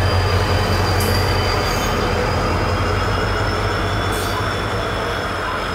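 Passenger train rolling slowly past on the next track: a diesel locomotive's low engine hum fades as it goes by, and the steady rumble of the coaches' wheels on the rails follows. A thin, steady, high wheel squeal runs underneath.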